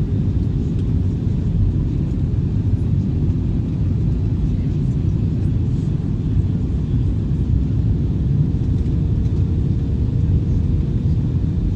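Airbus A321 in flight, a steady low rumble of engines and airflow, with a faint steady hum that comes in about halfway through.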